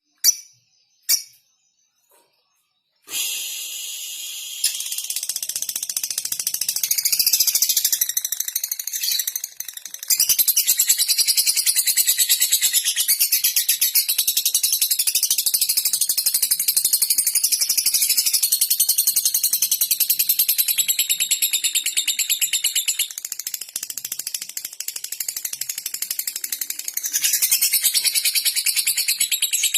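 Two short clicks, then from about three seconds in a lovebird's long, unbroken, very rapid high-pitched chatter, the trilling song that lovebird keepers call ngekek.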